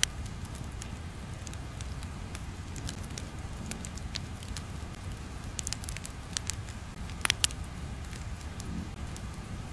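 Crackling background ambience: a steady low rumble with irregular sharp clicks and pops, a few louder ones about seven seconds in.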